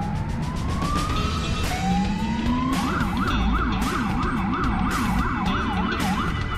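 Police car siren sounding two rising wails, then switching about three seconds in to a fast up-and-down yelp of roughly three cycles a second, over a low rumble of vehicle engines.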